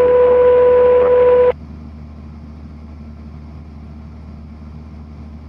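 A loud steady tone that cuts off suddenly about a second and a half in. It leaves the low, steady drone of the Cessna 172's engine and propeller in the cabin.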